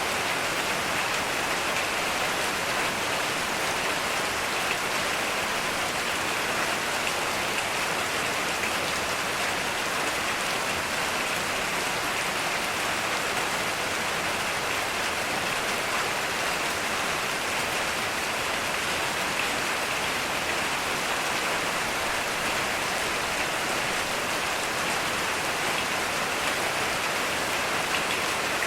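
Heavy rain falling steadily, an even hiss of many drops with no thunder.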